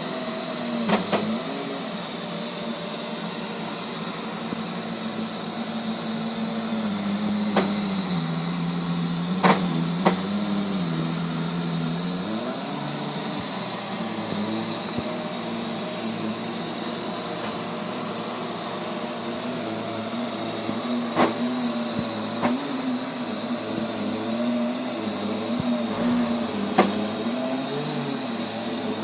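Neato robot vacuum cleaner making a loud, abnormal droning hum whose pitch wavers, dropping lower for a few seconds around the middle before rising back, with a few sharp clicks scattered through it. The owner says this noise started out of the blue on a nearly new robot and comes at random intervals and lengths.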